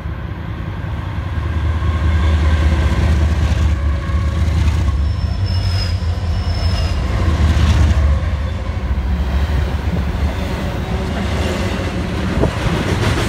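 Union Pacific freight train passing close by: the diesel locomotives' deep engine rumble grows louder over the first two seconds and peaks as they pass, then double-stack container cars roll by with steady wheel-on-rail noise. A faint high wheel squeal sounds briefly about five seconds in.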